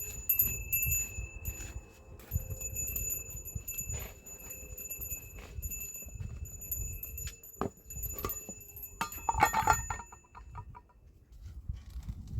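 A small metal bell jingling and ringing repeatedly with clear high tones, over low knocks and rustling. It breaks into a louder rattle about nine seconds in, then fades out near the end.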